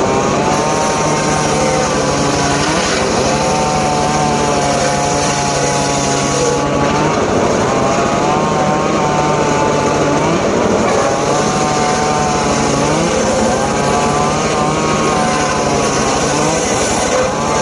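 Engine-driven homemade circular saw running hard, its engine note sagging and recovering over and over as the blade bites into johar wood.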